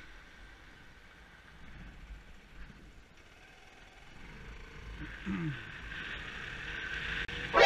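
Yamaha YBR125's single-cylinder four-stroke engine running as the motorcycle rides slowly, getting louder from about four seconds in. A sudden loud sound comes right at the end.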